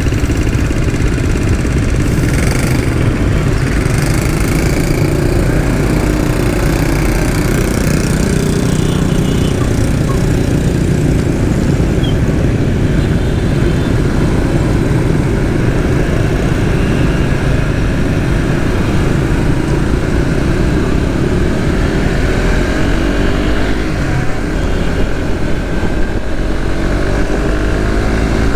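Suzuki GSX-S150's single-cylinder engine running under way, heard from on board over a heavy low rumble. The engine note rises in pitch several times near the end as the bike accelerates.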